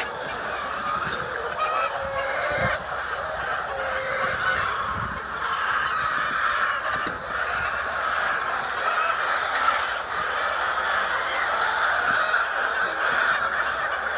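A flock of chickens calling all at once, a continuous chorus of overlapping squawks and clucks.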